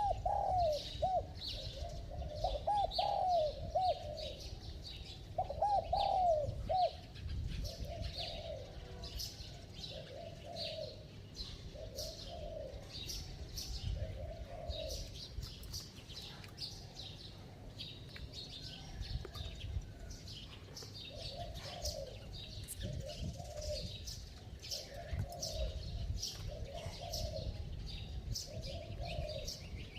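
Spotted dove cooing: a few loud arched coos in the first seven seconds, then softer coos repeated every second or so. Small birds chirp high above it.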